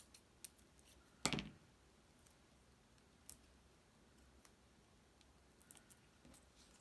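Sparse small clicks and taps of paper card pieces being handled on a tabletop, with one louder knock and rustle about a second in.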